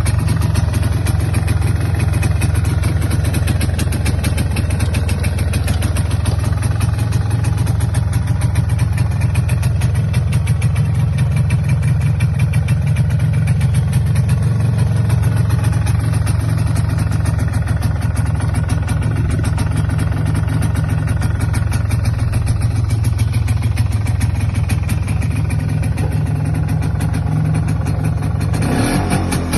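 MZ ETZ 250 single-cylinder two-stroke motorcycle engine idling steadily with an even, rapid beat. Music comes in near the end.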